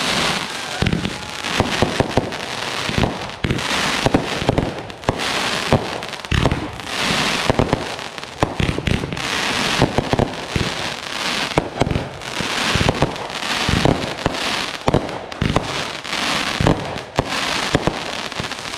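Fireworks show going off: a dense, unbroken run of sharp bangs from bursting shells over steady crackling.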